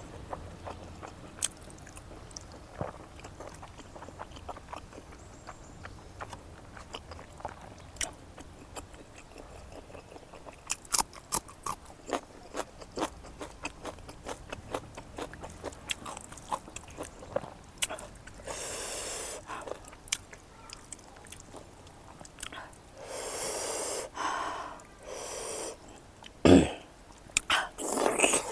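Close-miked chewing of smoked pork fat and rice eaten by hand, with wet lip smacks and mouth clicks throughout. There are heavy breaths through the nose around two-thirds of the way in and again a little later, and a short falling hum near the end.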